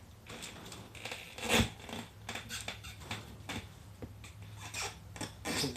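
Tire levers prying a motocross tire's bead over the rim a little at a time: irregular scraping and clicks of the levers against the rim and rubber, with a sharp knock about one and a half seconds in.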